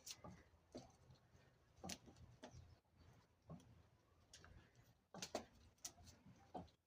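Faint, scattered clicks and taps, a dozen or so at uneven intervals, over a low steady hum.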